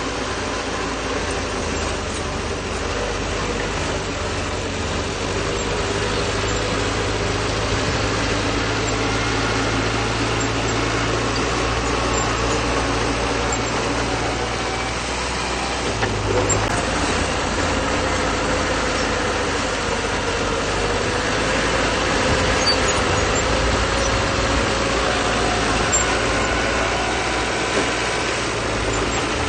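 Bulldozer diesel engine running steadily under work, its pitch wavering slightly, with a change in the low drone about halfway through.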